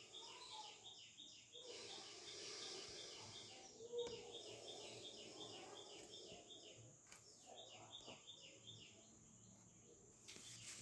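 Near silence with faint background: a bird chirping over and over, about three short chirps a second, over a steady high hiss, and a brief soft thump about four seconds in.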